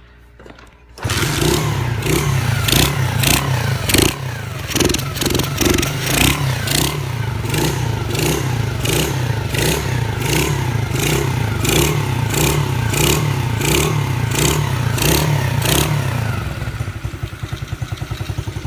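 A 2015 SSR SR70C pit bike's small four-stroke engine starts about a second in and is revved in quick repeated throttle blips, about two a second, then settles to a steady idle near the end.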